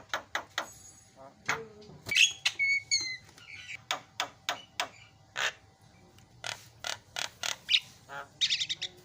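Javan myna singing: a fast, uneven run of harsh clicks and chattering notes, with a few short whistles about two to three seconds in and a harsher chattering burst near the end.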